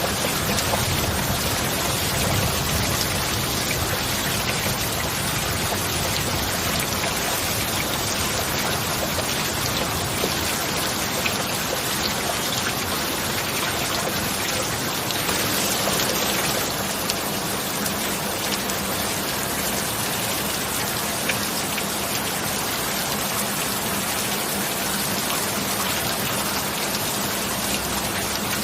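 Steady heavy rain falling, an even hiss of drops with a few scattered louder drops.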